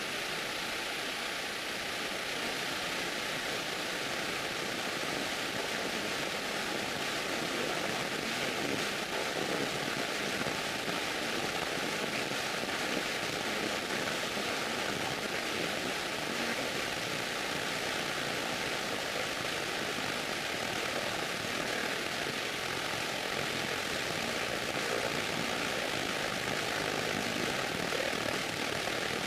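Steady engine and propeller noise of a light propeller airplane, heard from inside the cockpit on final approach.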